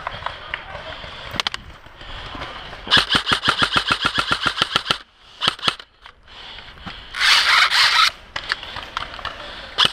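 Airsoft rifle firing a full-auto burst of about two seconds at roughly eleven shots a second, then a few single shots, and a second, denser burst of about a second near the end.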